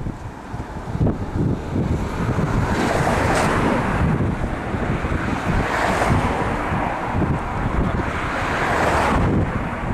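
Wind buffeting the microphone with a heavy low rumble, joined by a rushing hiss that swells three times and drops off near the end.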